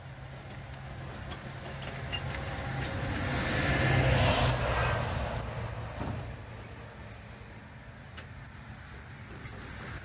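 A motor vehicle passes by: its sound swells to a peak about four seconds in and fades away over a couple of seconds, over a steady low engine hum. A few sharp clicks follow near the end.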